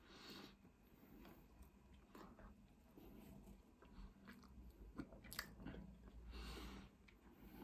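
Quiet close-up chewing and mouth sounds of someone eating chip-shop chips, with a few small wet clicks.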